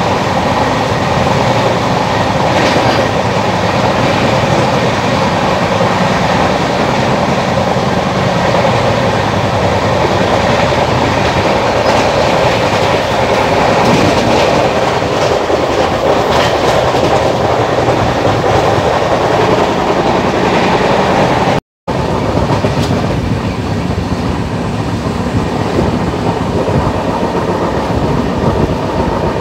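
Shan-e-Punjab Express running at speed: the steady rumble and rattle of the moving train, with faint clicks of the wheels over the rails. The sound breaks off for a moment about two-thirds through.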